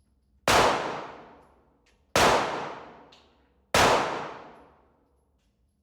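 Three gunshots from a shoulder-fired long gun, fired one after another about a second and a half apart, each ringing out for over a second before dying away.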